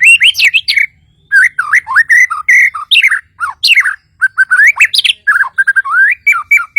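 Murai batu Kalimantan (Bornean white-rumped shama) singing a fast, loud run of varied whistled phrases and chatter, with brief pauses about a second in and about four seconds in.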